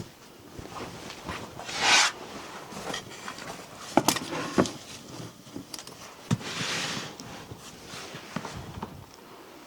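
Handling sounds: light clicks and knocks mixed with short rustling swishes, the loudest swish about two seconds in and a longer, softer one around seven seconds in.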